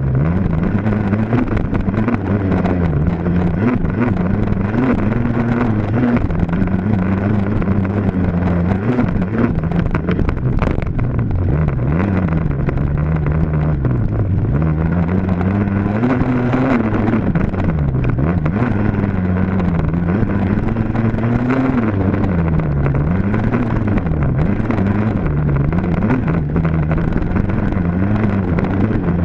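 Dirt bike engine being ridden hard, its pitch rising and falling again and again as the throttle is opened and closed and the gears change.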